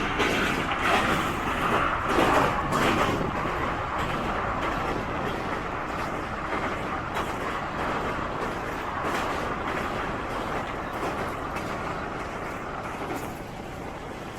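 Steady running noise of a moving Indian express train heard from on board a non-AC double-decker coach.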